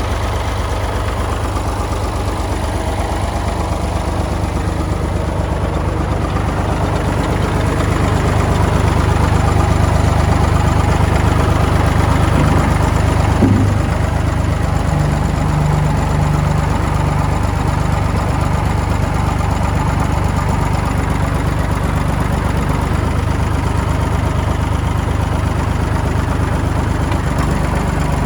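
Massey Ferguson 203 tractor's three-cylinder Perkins diesel idling steadily, with a single short knock about halfway through.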